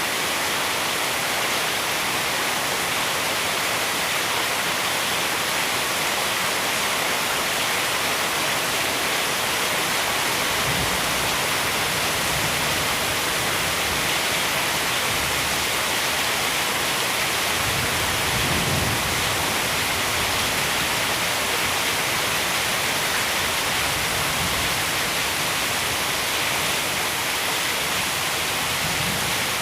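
Heavy rain pouring steadily in a storm, a dense even hiss. Two faint low rumbles come through, about ten and eighteen seconds in.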